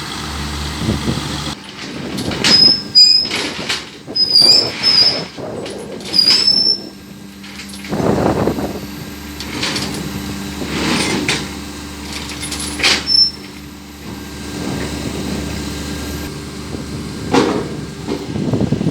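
Heavy sugarcane truck running, with a steady low engine hum and repeated sudden metallic knocks and bangs. Short high squeals cut in several times in the first half.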